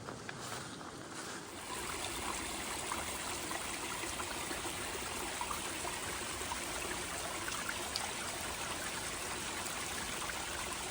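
Running creek water, a steady rush that gets louder and fuller about two seconds in.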